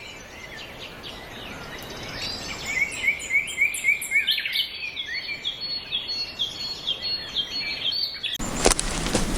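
Birds singing quick, repeated chirping notes over a light background hiss. Near the end, a sudden, louder crackling noise cuts in.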